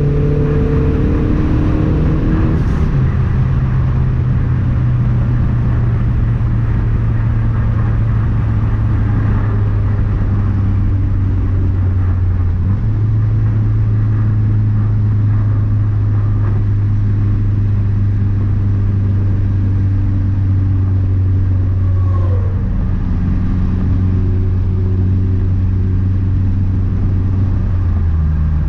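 Turbocharged 2.3-litre four-cylinder of a 2012 Mazdaspeed 3 running at a steady cruise over road noise. Its engine note holds even apart from a few small step changes in pitch.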